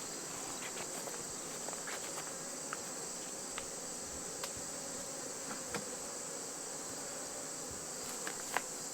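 Honeybees buzzing around an open hive, heard as a steady hum under a constant high-pitched insect chorus, with scattered light clicks and knocks as the wooden hive parts are handled.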